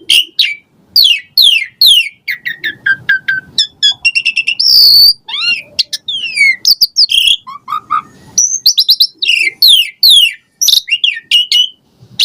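Asian pied starling (jalak suren) singing a fast, varied song of chirps and quick downward-sliding whistles mixed with mimicked phrases, with hardly a pause.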